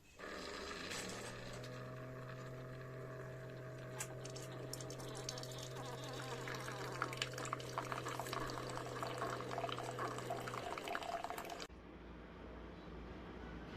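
CHULUX mini single-serve coffee maker dispensing: its pump hums steadily while hot water runs and gurgles into the cup, turning spluttery toward the end. The hum stops after about ten and a half seconds and the water noise cuts off a second later, as the brew cycle finishes.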